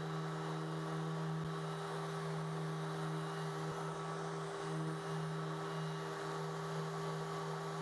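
Steady low hum made of several held tones that do not change, with no other events.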